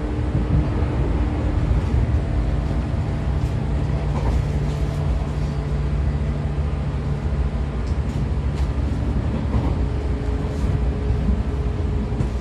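Running sound inside the motor car of a 113 series electric train: the MT54 DC series-wound traction motors and gears hum steadily over the rumble of the DT21B bogies on the rails. The hum's tones shift about eight to ten seconds in, and a few light clicks come through.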